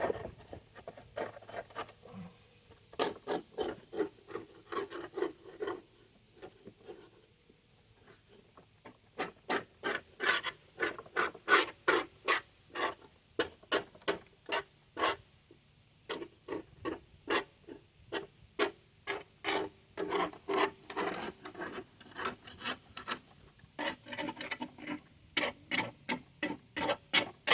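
Hand scraping on the underside of a Toro 22-inch lawn mower deck, cleaning it: runs of quick back-and-forth strokes, about two or three a second, stopping for a few seconds early on and briefly in the middle.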